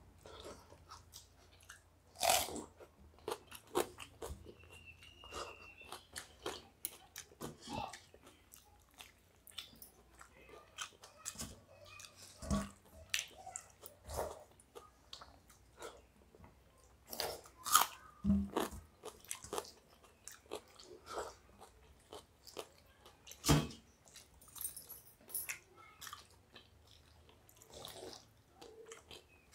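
Close-miked eating by hand from steel plates, of watery rice, raw onion and fried stuffed bitter gourd: chewing and crunching, with many scattered short clicks and smacks, a few of them louder.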